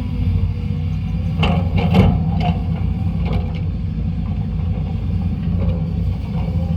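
Sany SY200C excavator's Mitsubishi 4M50 four-cylinder diesel engine running steadily under working load while digging, with a few short knocks about one and a half to two seconds in.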